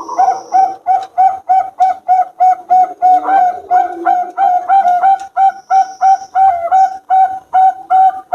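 Perkutut (zebra dove) of the Bangkok song line cooing: a fast, even run of short notes, about three a second.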